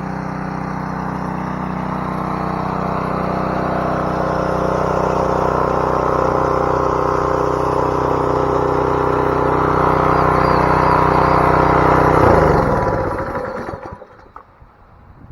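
Gas-engine pressure washer running steadily with its spray hissing. About twelve seconds in it is shut off and winds down, its pitch falling until it stops.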